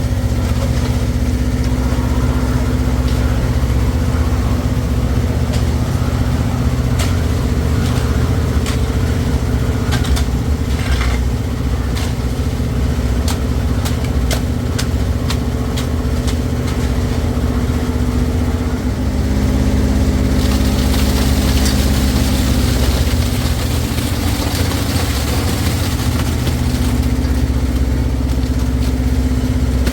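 An engine running steadily at an even speed, with scattered clicks and knocks in the first half. About twenty seconds in, a rushing hiss comes up over it.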